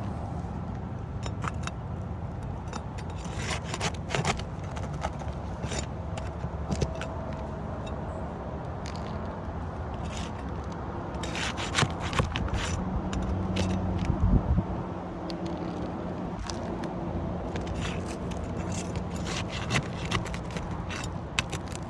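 Roofing nails being pried out from under laminated asphalt shingles with a metal tool: scattered scrapes and sharp metallic clicks, in bunches, over a steady low rumble.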